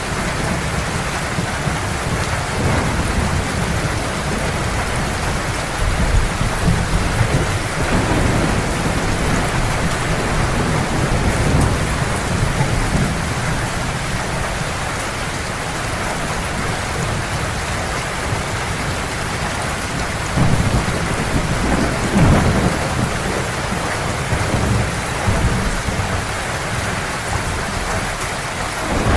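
Heavy rain falling steadily, with low thunder rumbling underneath. The thunder swells about a quarter of the way in and again about two-thirds through.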